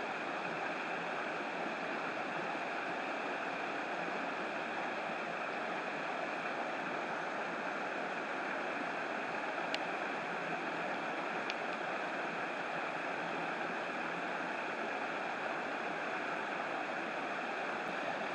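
Steady rain on a river with flowing water, a constant even hiss that never changes, and two faint sharp ticks near the middle.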